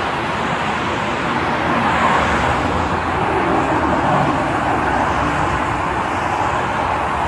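Steady noise of highway traffic streaming past close by, an even rush with no single vehicle standing out.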